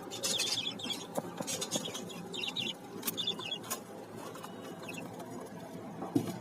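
Parrots giving short, high chirps in small scattered clusters, with faint clicks and rustling from the birds moving about.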